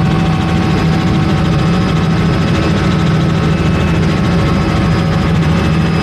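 Helicopter running in flight: a loud, steady drone of turbine and rotor with a constant high whine on top.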